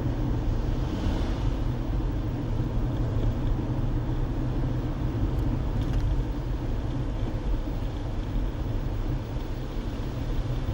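Car interior road noise while driving: a steady low rumble of engine and tyres on the road, with a brief swell of hiss about a second in.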